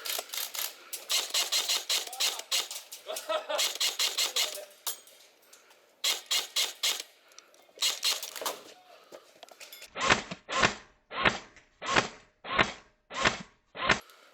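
Airsoft guns firing rapid full-auto bursts of BB shots, several long strings over the first nine seconds. About ten seconds in, this gives way to a run of about eight evenly spaced thumps, roughly two a second.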